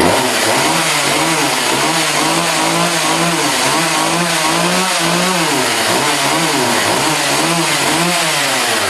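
Poulan Pro two-stroke chainsaw running after a cold start, its engine speed wavering up and down. It stutters a little, which the owner thinks may be the cold temperature.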